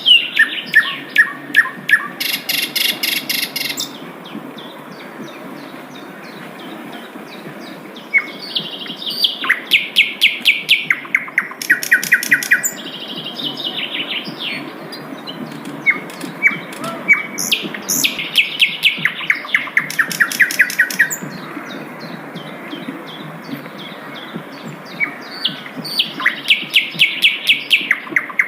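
Sikatan londo flycatcher singing: phrases of fast, evenly repeated high notes, each phrase a few seconds long, with pauses between them. A steady low hum runs underneath.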